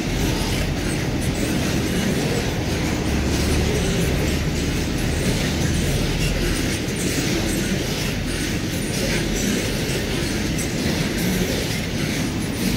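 Container flatcars of a long freight train rolling past at close range: a steady rumble of steel wheels on the rails with repeated clacks over the rail joints.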